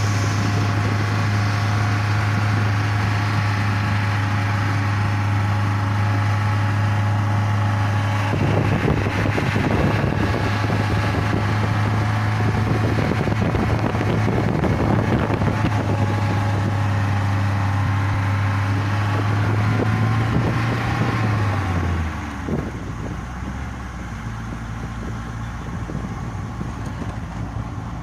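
A motor vehicle's engine running with a steady, even hum, with rattling and road noise over it from about eight seconds in. Near the end the engine's pitch drops and the sound becomes quieter, as the vehicle slows down.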